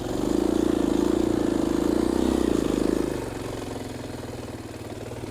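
KTM 500 EXC-F dirt bike's single-cylinder four-stroke engine running under steady throttle for about three seconds, then dropping back to idle.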